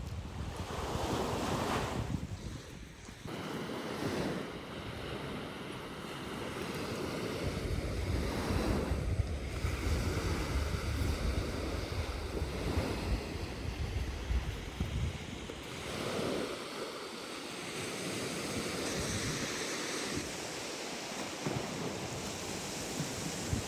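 Lake waves washing onto a sandy beach, with wind gusting across the microphone in a heavy low rumble from about a third of the way in until past the middle.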